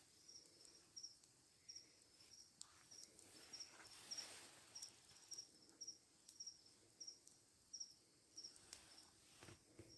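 Faint cricket chirping: short, high chirps repeating evenly, about three a second.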